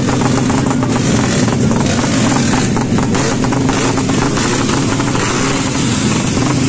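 Motorcycle engine running steadily, holding an even pitch with no revving.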